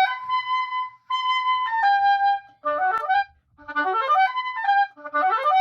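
Oboe playing a practice passage over and over: quick rising runs of notes that climb to a held high B and then step down, with short breaks between the repeats.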